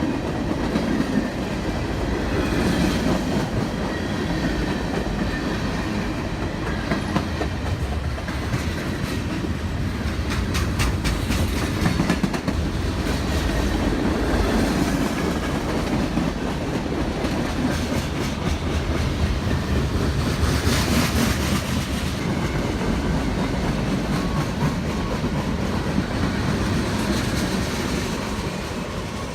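A passing train: a steady rumble of wheels on rail with the clickety-clack of wheels over rail joints, including a run of rapid clicks about ten seconds in.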